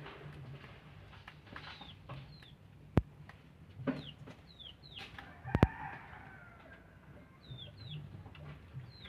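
Birds calling: many short, high, falling chirps, with a longer call a little past halfway. Two sharp knocks come about three seconds in and a little past halfway; the second is the loudest sound.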